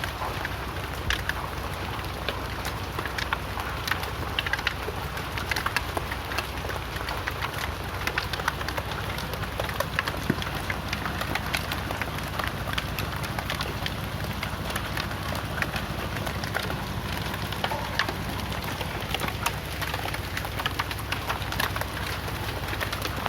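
Hailstones falling with rain, striking hard surfaces in a dense, irregular clatter of sharp clicks over a steady hiss of rain.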